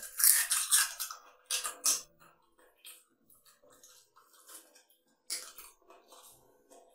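Close-up eating sounds of a person eating rice and fish curry by hand: loud wet chewing and lip smacking in the first two seconds, then quieter chewing and soft clicks of fingers mixing rice on the plate.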